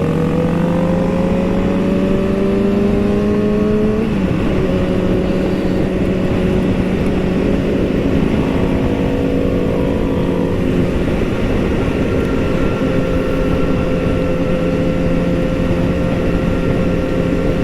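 Motorcycle engine under way, its pitch rising as it accelerates for about four seconds, dropping with a gear change, then holding steady at cruising speed.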